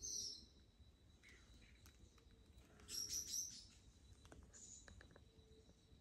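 Faint bird chirps: a short high call right at the start and a quick run of chirps about three seconds in.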